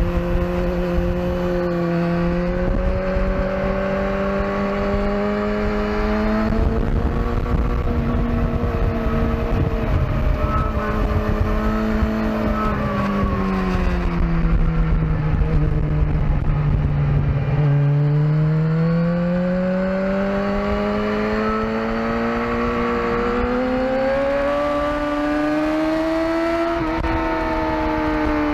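Sport bike engine under hard riding: its note climbs with acceleration, drops steadily for a few seconds about halfway through as the bike slows, then climbs again for most of the rest. Wind rush on the microphone comes and goes through the middle.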